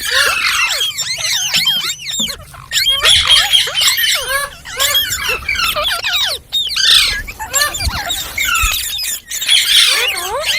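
Several green parrots chattering together, a dense stream of quick, shrill rising and falling squeaks and squawks that overlap one another.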